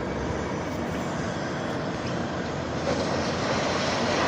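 Steady rumbling vehicle noise, getting a little louder in the second half.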